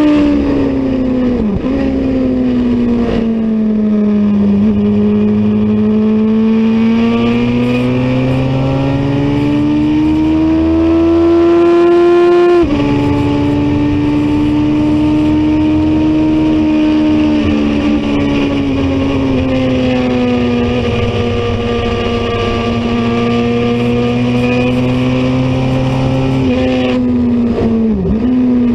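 Racing motorcycle engine running hard on a road course. The pitch climbs for several seconds, drops sharply at an upshift about halfway through, then holds and wanders, with brief quick dips near the start and near the end.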